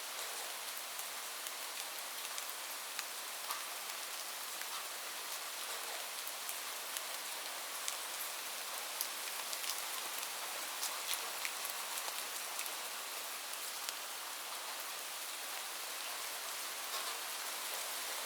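Steady rain falling, an even hiss with individual drops ticking sharply on a hard surface here and there.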